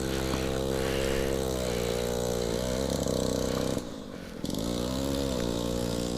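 A small engine running steadily, its pitch dipping and rising slightly. It cuts out abruptly for about half a second around four seconds in, then carries on.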